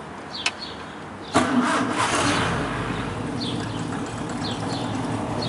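1955 MG TF1500's 1.5-litre four-cylinder engine starting: a click, then it fires about a second and a half in, loudest as it catches, and settles into a steady idle.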